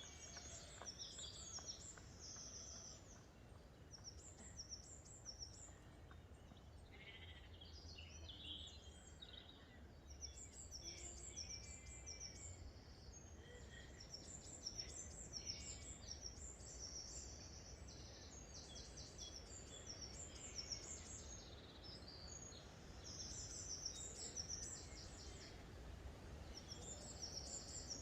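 Birds singing, with many short, high chirping notes repeating throughout, faint against a low steady outdoor rumble.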